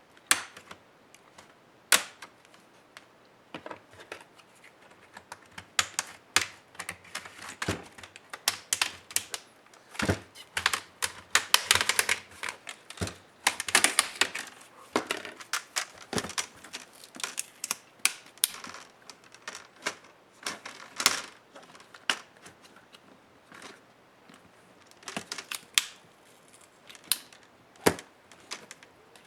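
Irregular clicks, taps and plastic snaps of a laptop being taken apart by hand, as parts and tools are handled, with a denser run of clicking in the middle.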